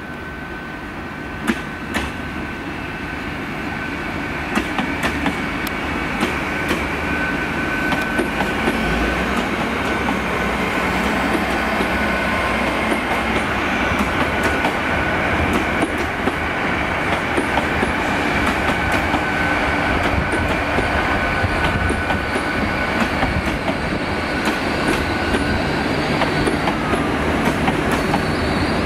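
A Great Western Railway Class 800 Intercity Express Train, two units coupled, approaches and runs past close by. It grows louder over the first few seconds, with a steady high-pitched squeal and scattered clicks from the wheels on the track.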